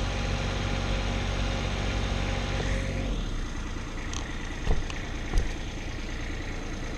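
An engine idling steadily, which stops about three seconds in, followed by two sharp knocks.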